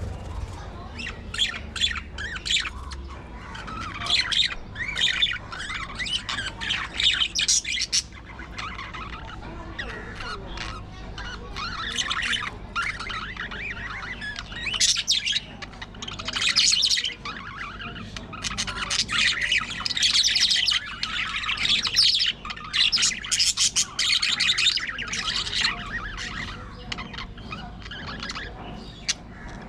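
Pet budgerigars chattering: a busy stream of quick chirps, warbles and squawks in bursts with short lulls.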